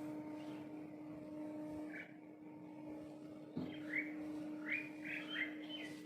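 A small bird chirping: one short chirp about two seconds in, then a quick run of about five chirps near the end. A steady low hum runs underneath.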